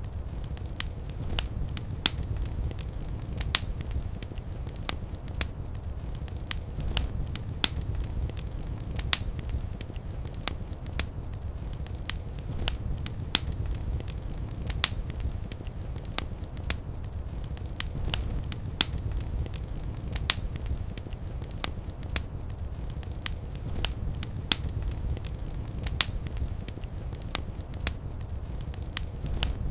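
Fireplace fire crackling: irregular sharp pops, some much louder than others, over a low steady rumble of the flames.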